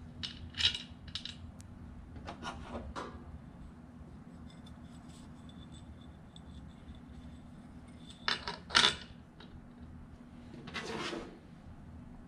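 Small metal ceiling-fan parts clinking and clicking as they are handled, in a few short clusters, the loudest about eight and a half seconds in, then a brief rattling scrape near the end. A faint steady hum runs underneath.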